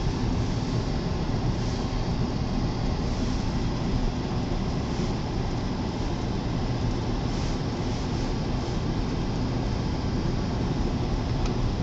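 Steady rumble and hiss inside a car's cabin as it drives slowly through a blizzard with strong wind.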